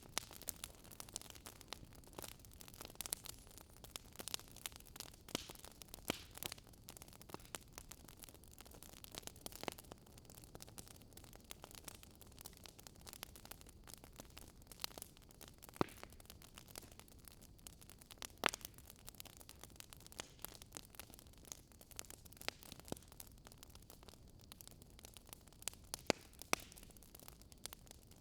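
Wood fire in a fireplace crackling, with irregular small pops and snaps over a soft hiss and a few sharper snaps.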